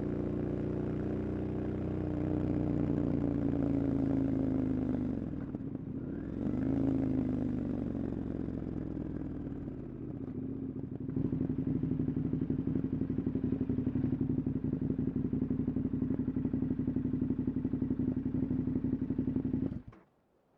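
KTM 1290 Super Adventure's V-twin engine slowing, its pitch dipping and climbing again about six seconds in, then running steadily at low revs with an even pulse before it stops abruptly near the end.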